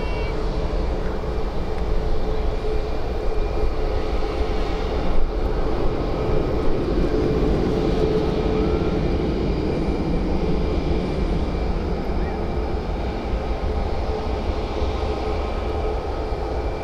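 Airbus A320-214 jet airliner's CFM56 turbofan engines running, a steady loud rushing noise with a few held whining tones over it.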